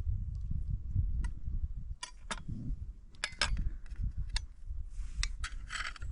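Low rumble, like wind on the microphone, with scattered sharp clicks and light clinks.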